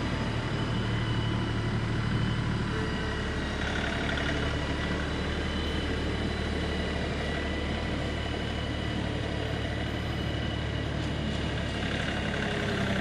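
LS MT3 compact tractor's diesel engine running steadily.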